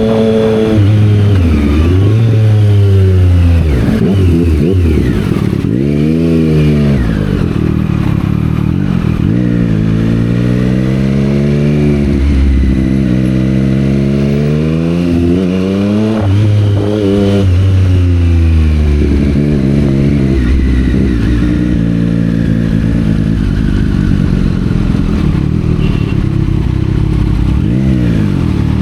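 Triumph Street Triple 765 R's three-cylinder engine through a Yoshimura exhaust, riding through traffic: it revs up and eases off again and again, its pitch climbing with each pull and dropping back.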